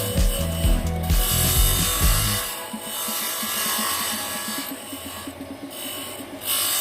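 Wood being worked with a tool: a scraping, rattling sound in uneven strokes with fast small ticks, over background music with a steady beat that drops out after about two seconds.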